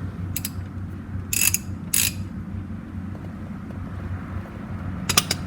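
Ratchet wrench on a 17 mm socket clicking in a few short spells as it works the tractor's oil drain bolt loose. A steady low hum lies underneath.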